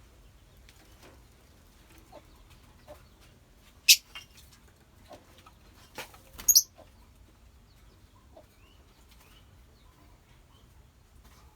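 Lovebirds in a colony aviary, mostly quiet, giving two sharp, shrill calls about four and six and a half seconds in, with faint short chirps and small clicks between.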